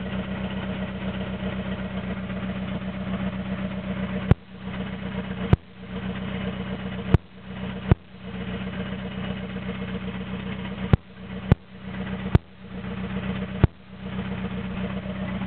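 Toyota AE86's 1.6-litre four-cylinder 4A-GZE, run naturally aspirated with the exhaust open after the downpipe, idling roughly. It gives eight sharp pops at uneven intervals, and the engine note sags briefly after each one: it is struggling to hold idle.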